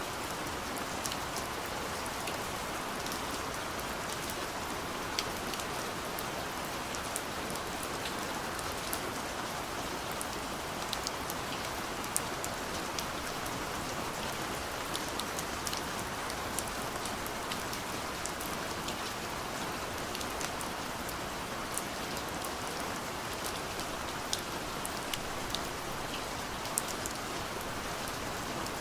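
Soft, steady rain falling on a window, a constant hiss with many small, sharp drop ticks scattered through it.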